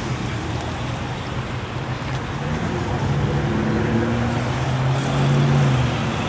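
A car engine running with a low, steady rumble that grows louder from about halfway through, over traffic noise.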